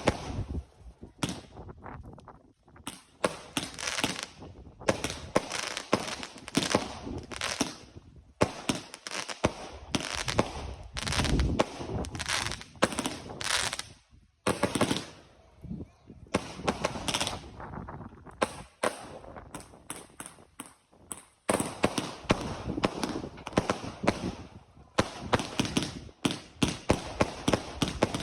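Fireworks going off in rapid volleys of sharp bangs and crackles, with brief lulls between volleys.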